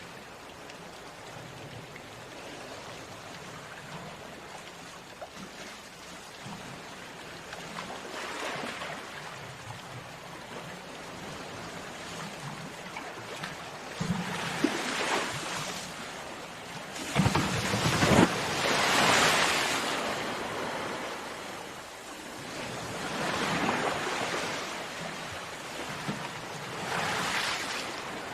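Sea waves breaking on a beach: a steady wash of surf with a wave swelling and crashing every few seconds, the biggest break about two-thirds of the way through.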